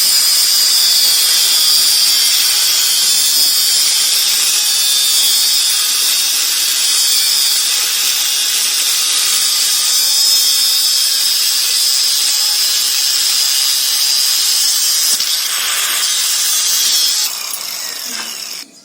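Handheld electric power tool running steadily at high speed with a high whine, on metalwork during a concrete mixer restoration; it drops about a second before the end, then stops.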